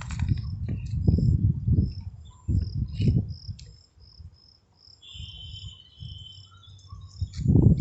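Crickets or similar insects chirping, short high chirps repeating about twice a second, with a brief buzzing trill about five seconds in. A low gusty rumble, as of wind on the microphone, is louder than the chirps for much of the time and drops away near the middle.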